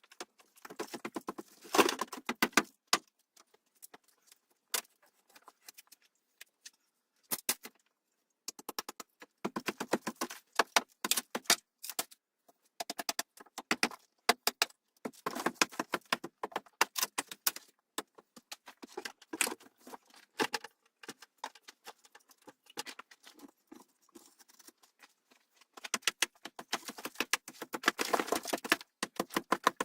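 Bursts of light metallic clinking and clattering, many quick clicks in a row, stopping and starting again several times.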